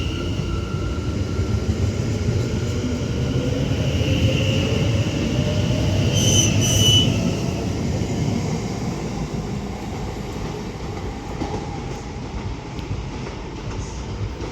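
A train running on the rails, with wheels squealing in high thin tones over a steady rumble. Two short high tones come just after six seconds in, near the loudest point, and the sound then gradually fades.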